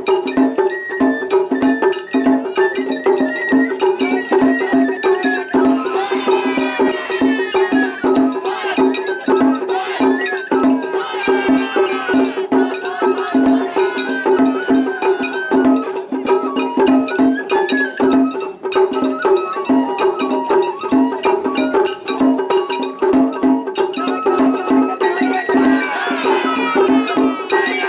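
Japanese festival hayashi music: a metal hand gong (kane) struck in a steady, rapid rhythm, with a bamboo flute melody wavering above it.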